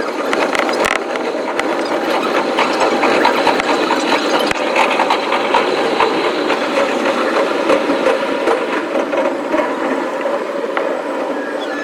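Electric commuter train running, heard from the cab: a dense, even rattle with many quick clicks from the rails, sped up so that the low rumble is missing.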